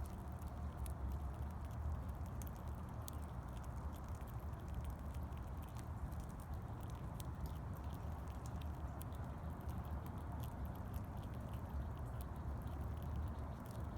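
Faint, irregular clicks of a squirrel nibbling at food, over a steady low rumble.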